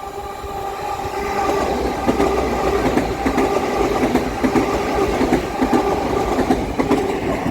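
LNER Azuma bi-mode express train passing over a level crossing, growing louder over the first two seconds as it arrives. It runs with a steady mechanical hum and a run of regular knocks from the wheels over the rail joints.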